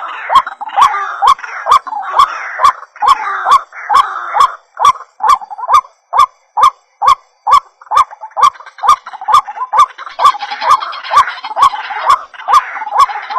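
White-breasted waterhen (ruak-ruak) calling over and over as a trapping lure: short, hoarse notes in an even rhythm of about three a second. Each note comes with a sharp click.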